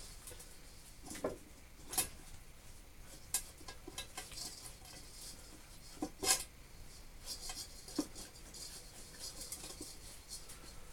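Scattered clicks and clinks of metal tools and parts being handled while a part is taken off an old Lister pump engine, the sharpest knocks about two and six seconds in, with light scraping between them.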